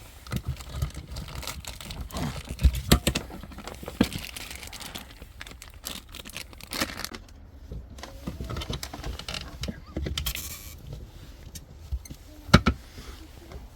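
Handling noise of a power adapter, its cable and packaging: crinkling and rustling with scattered clicks and knocks, and one sharper knock near the end.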